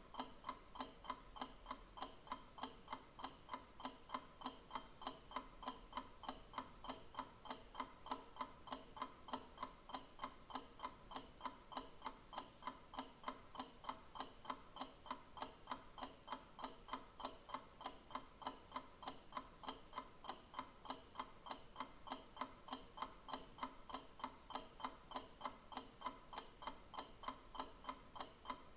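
Clock ticking steadily, with evenly spaced sharp ticks.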